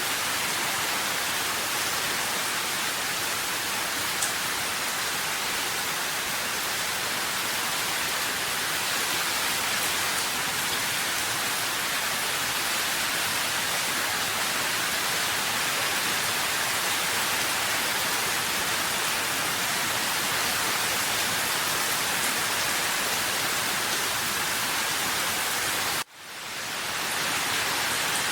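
Steady heavy rain, an even hiss of many fine drops. About 26 seconds in the sound cuts out suddenly and swells back up over a couple of seconds.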